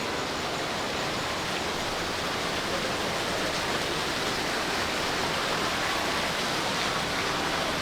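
Steady rushing background noise of a busy indoor shopping mall, even and unbroken throughout.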